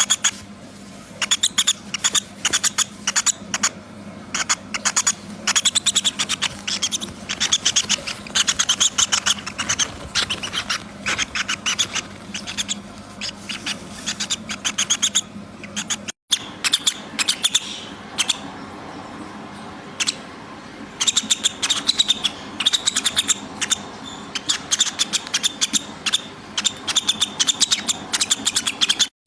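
Small birds chirping, a dense stream of short, rapid high-pitched chirps, broken by a brief gap about sixteen seconds in.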